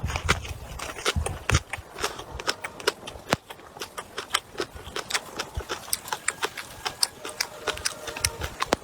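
Close-up eating sounds of stir-fried pork bone with vegetables: chewing and gnawing, with a quick, irregular run of sharp wet clicks and crunches, several a second.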